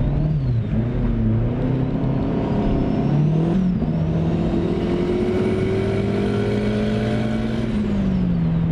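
Turbocharged Mazda MX-5 Miata NB 1.8 four-cylinder accelerating hard. The revs climb, drop at a gear change about three and a half seconds in, then climb again with a high whine rising alongside. Near the end the revs fall and settle.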